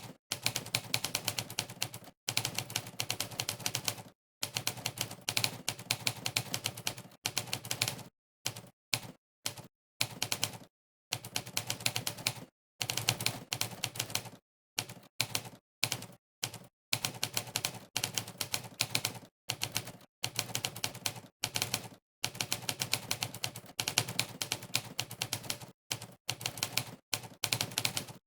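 Simulated typewriter keystroke sounds from a typing-test website, one clack per key press, while someone types fast. The clacks come in rapid runs broken by short silent pauses between words and phrases.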